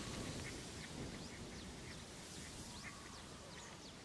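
Faint outdoor ambience: many short, high bird chirps scattered over a soft hiss.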